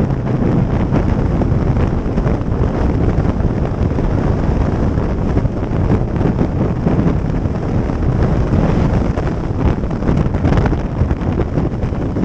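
Wind buffeting the microphone of a camera riding on a moving motorcycle: a loud, gusty rumble that covers any engine sound.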